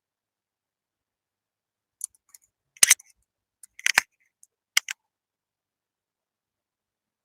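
A handful of short, sharp metallic clicks and light rattles from small metal tools being handled, bunched together in the middle with silence on either side, the loudest two about a second apart.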